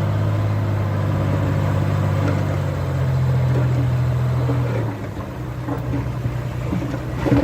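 Heavy-machinery diesel engine running steadily at a constant pitch. Its sound drops back about five seconds in, and a sharp knock comes near the end.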